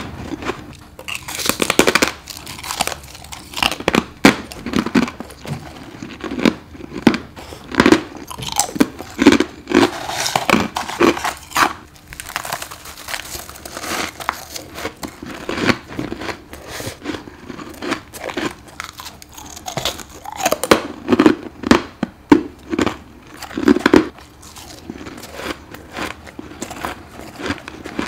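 Close-miked bites into frozen frost ice built up in a deep freezer, each bite a sharp crisp crunch followed by chewing, repeating irregularly. The crunches turn quieter and smaller for the last few seconds.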